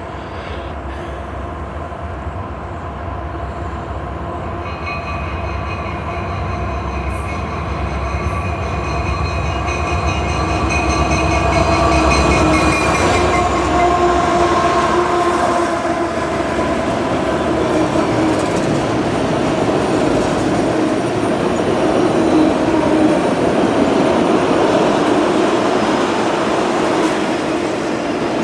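CSX freight train led by an EMD SD70AC diesel locomotive approaching and passing, its engine throbbing low. Then the cars roll by with steady wheel-on-rail noise. Several steady pitched tones ring out over it through the middle and drop a little in pitch as the locomotive goes by.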